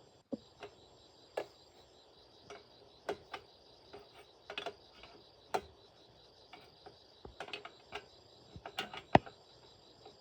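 Steady high insect drone, crickets chirring, with about a dozen sharp clicks and light knocks scattered irregularly over it, the loudest about nine seconds in.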